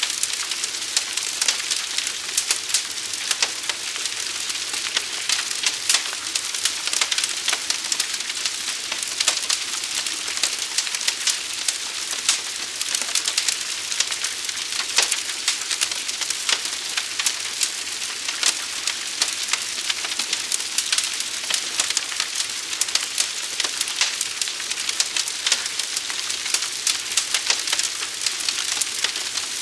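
Fire burning with a steady hiss and a dense run of sharp crackles and pops.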